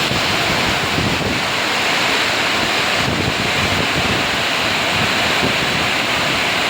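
Summer storm: heavy rain and strong wind, with the wind buffeting the microphone.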